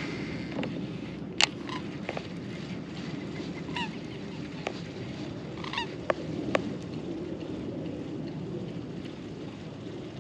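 Short honking calls of a waterbird, heard a few times over a steady low rumble of wind and water, with a few sharp clicks in between.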